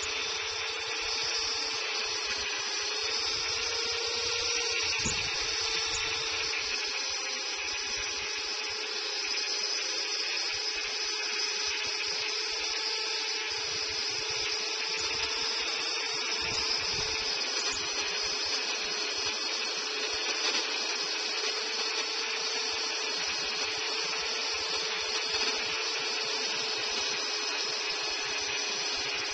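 Two-stroke chainsaw held at high revs, cutting into a dead pine tree. Its pitch stays steady, with small rises and dips as the load changes.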